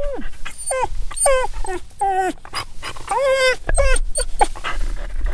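A dog whining: a string of short, high-pitched whimpering cries, each bending down in pitch, with a longer drawn-out whine about three seconds in.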